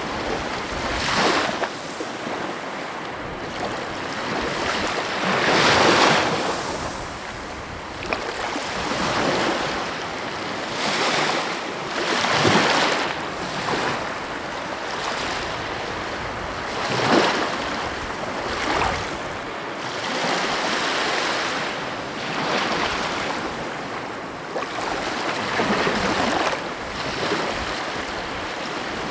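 Sea waves breaking and washing on the shore: a continuous surf wash with a louder wave cresting every few seconds.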